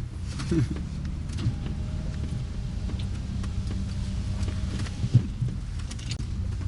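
Car running, heard from inside the cabin: a steady low rumble of engine and tyres, with a faint thin whine for a few seconds in the middle.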